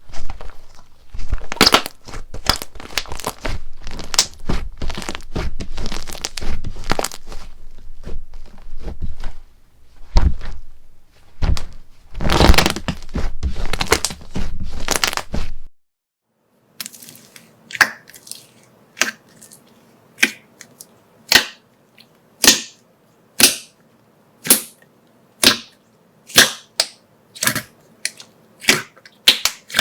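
Slime being squeezed and pressed close to the microphone: dense crackling and crunching for about fifteen seconds. After a short break, sharp separate pops or cracks come about once a second.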